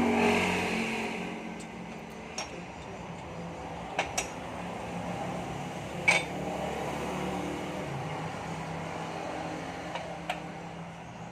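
Sharp metallic clicks and clinks of motorcycle engine parts and hand tools being handled, about six in all and spread out, over a steady mechanical hum.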